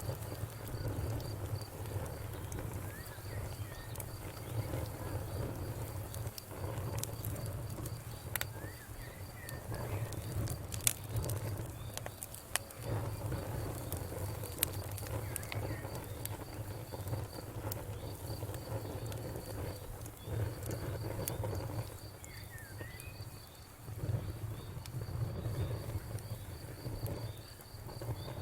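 Wood fire crackling, with scattered sharp pops and snaps over a steady low rumble. A faint, even, high insect trill runs along behind it.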